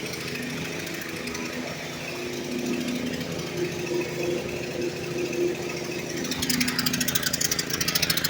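Small single-cylinder engine of a portable generator running steadily with a rapid firing beat, revived by cleaning out its carburetor bowl. It gets louder and harsher about six seconds in.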